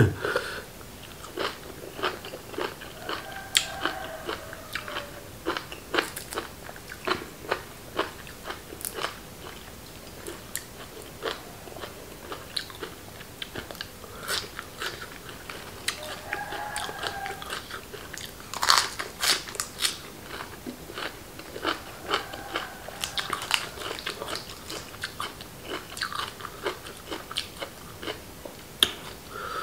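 A person chewing crunchy mouthfuls of a raw beef and liver dish close to the microphone: irregular sharp crunches between stretches of wet chewing, loudest about two-thirds of the way through.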